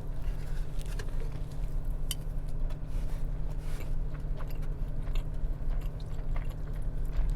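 Close-up chewing of a deep-fried crunchy sushi roll, with scattered crisp crunches from the fried batter. A steady low hum runs underneath.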